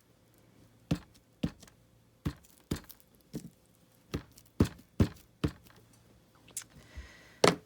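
Stamp repeatedly tapped and pressed down on a tabletop: about a dozen sharp knocks, roughly two a second, with a short pause before the last few and the loudest knock near the end.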